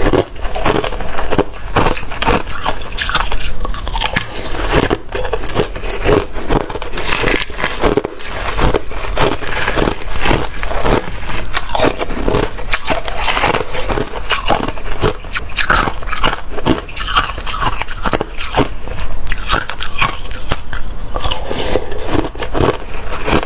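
Watery, slushy ice being bitten and chewed close to the microphone. Wet crunching and crackling goes on throughout, several bites a second.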